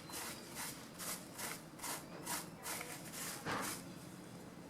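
Branches being cut by hand into wood chips: a steady run of short woody crunching snips, about two a second, with a somewhat larger crunch about three and a half seconds in.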